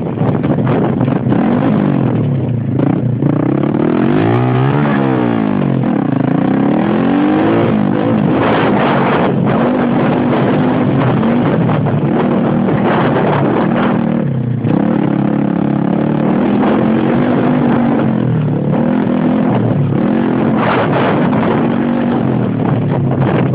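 Xmoto XB-32 125cc pit bike engine revving up and down while being ridden, its pitch rising and falling again and again through the throttle changes, with a deeper drop about fourteen seconds in.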